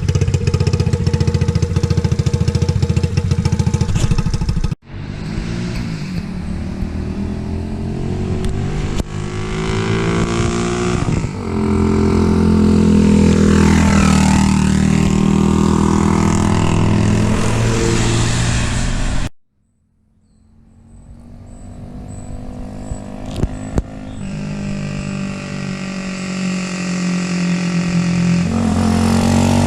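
Ice Bear Champion CT70-clone pit bike's single-cylinder engine running through a Trail Buddy Thumper exhaust. It runs steadily close by at first. After two abrupt cuts the bike is ridden past under throttle, its engine note rising and falling as it comes and goes.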